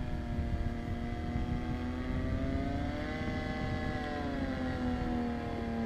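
Paramotor's two-stroke engine droning in flight, its pitch rising and falling as the throttle changes, with wind rumble on the microphone.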